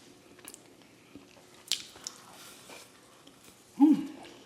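Close-up eating sounds: quiet chewing and biting with a few soft mouth clicks, one sharper about two seconds in. Near the end, a short voiced "mm"-like sound from the eater, the loudest sound here.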